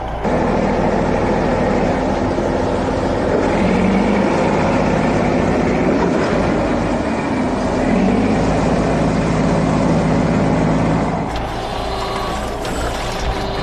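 Heavy vehicle engine sound effect of a cartoon construction truck running steadily, stepping up in loudness just after the start and dropping back about eleven seconds in.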